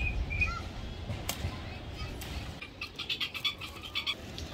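Small birds chirping: a few short whistled notes at the start, then a quick run of chirps in the second half, over a steady low rumble.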